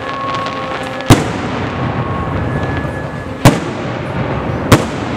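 Aerial fireworks display: three sharp, loud shell bursts about a second in, near the middle and near the end, over a continuous din of the display.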